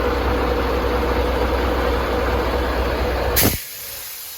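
Diesel engine of a Volvo semi truck running with a steady drone and a steady whine through it. This is the droning and 'sneezing' the owner cannot diagnose. About three and a half seconds in, the engine sound drops away abruptly and a loud hiss takes over for about a second.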